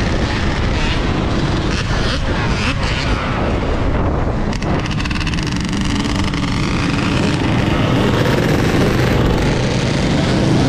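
Wind rushing over a GoPro microphone while riding a Sur-Ron electric dirt bike. From about four seconds in, a whine sweeps up and down in pitch for a few seconds.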